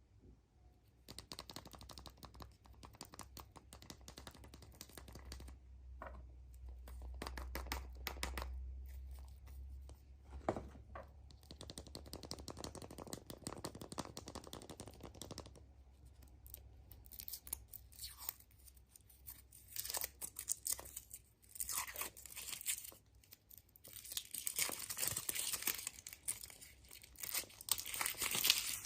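Thin foil wrapper of a chocolate surprise egg being torn and crinkled by hand. It comes as irregular bursts of crackling that grow busier and louder in the last third.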